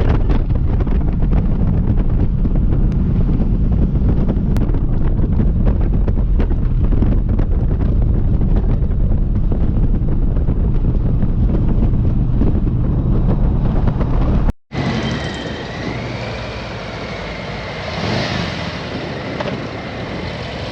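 Motorcycle riding at road speed: heavy wind buffeting the microphone over a low engine note. About fifteen seconds in it cuts off abruptly and gives way to a quieter, steadier vehicle noise with a faint wavering whistle.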